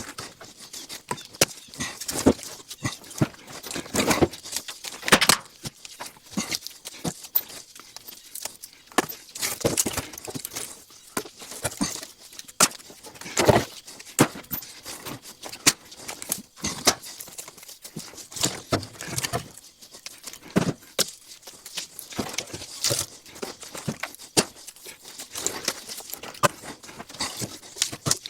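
Irregular wooden knocks and thuds of split-wood chunks being handled and dropped one after another, some heavier thumps among many lighter clacks.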